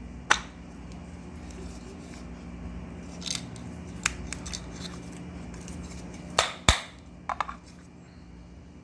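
Metal ceiling fan parts being handled and fitted back together: about half a dozen sharp separate clicks and clinks, the loudest two close together about two-thirds of the way through.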